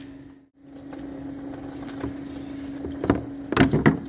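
A rubber coolant hose being twisted and tugged off a plastic thermostat housing, with a few sharp knocks and scrapes from about three seconds in, over a steady hum.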